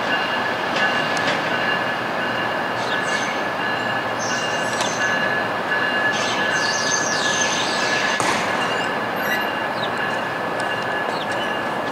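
A three-car Union Pearson Express diesel multiple unit departing slowly through the station's track switches. Its wheels squeal steadily and high-pitched over the train's running noise, with extra sharper squeals in the middle.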